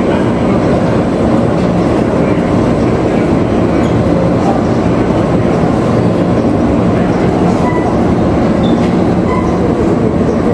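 Tea factory processing machinery running with a loud, steady mechanical noise, strongest low down.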